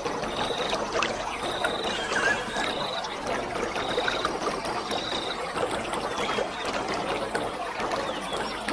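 Waterfall: water falling and splashing steadily, with many small spatters. A short high call repeats about once a second over it and stops about five seconds in.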